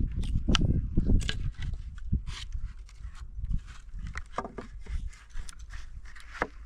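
Irregular knocks and clicks, a few a second, over a low rumble.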